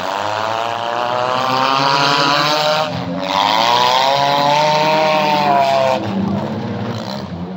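Demolition derby car engine revved hard twice. The pitch climbs for about three seconds, breaks off briefly, then rises again and holds high for nearly three seconds before dropping back to a lower engine rumble.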